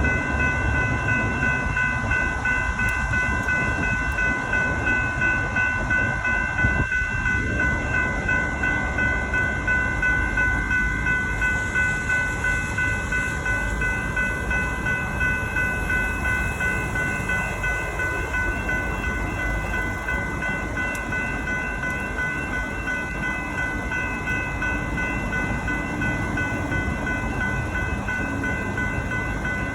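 Level crossing electronic bells ringing in a rapid, steady repeating ding, the warning that a train is approaching, over a low rumble.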